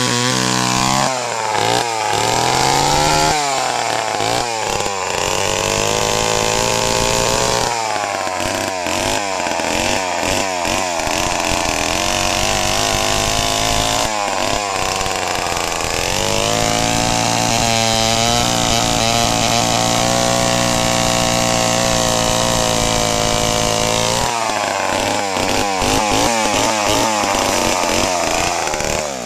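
Large, heavy two-stroke chainsaw running at high revs. Its pitch sags and climbs back again several times, with long steady stretches at full speed in between.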